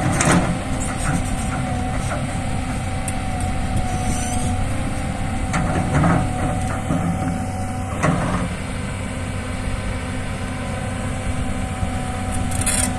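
Heavy diesel engine of a forestry machine running steadily, with a steady high whine over the engine and a few short clunks.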